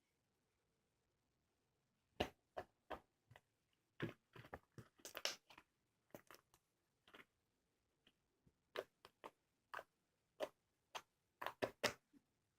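Slime being worked by hand, making a string of short, sharp wet clicks and pops in irregular clusters, starting about two seconds in.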